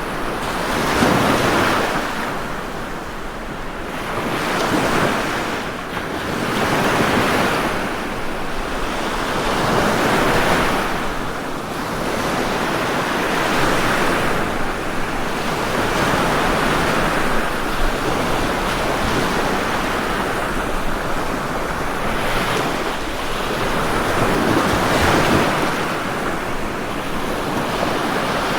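Ocean surf breaking and washing ashore, the rush of water swelling and easing every few seconds as one wave follows another.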